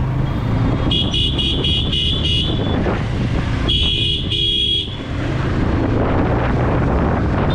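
Quick, high electronic beeps, about five in a row and then two more a second later, over a steady low vehicle engine rumble.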